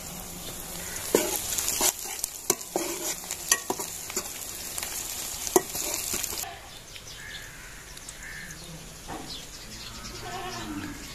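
Chopped onions sizzling in hot oil in an aluminium karahi, with a metal ladle stirring and scraping and knocking sharply against the pan several times. About six and a half seconds in the sizzle drops to a softer hiss.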